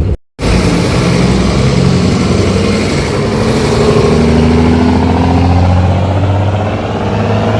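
Mercedes-Benz OH-1318 bus diesel engine running through a free, unsilenced exhaust. After a brief cut-out near the start it pulls away, its pitch climbing a few seconds in as it accelerates.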